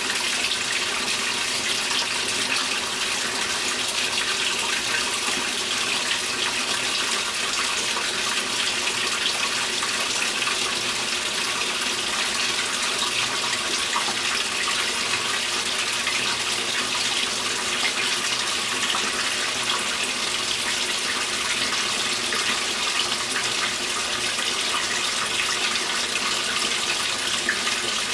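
2015 Speed Queen 8 Series top-load washing machine filling with water: a steady, even rush of water pouring into the tub.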